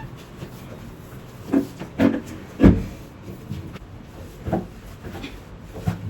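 About five scattered knocks and bumps of household objects being handled, the loudest a little under three seconds in.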